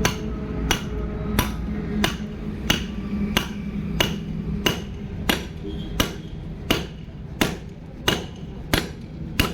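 Hammer tapping steadily on metal, a strike about every two-thirds of a second with a short metallic ring each time, driving a bearing into place. A steady low hum runs underneath.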